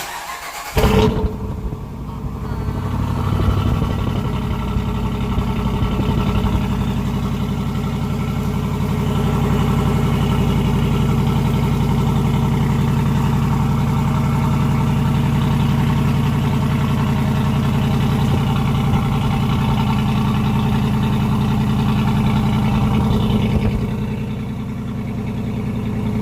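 Jeep's Hemi V8 cold start: the starter cranks briefly, the engine catches with a loud flare about a second in, then settles into a steady fast idle that drops a little lower near the end.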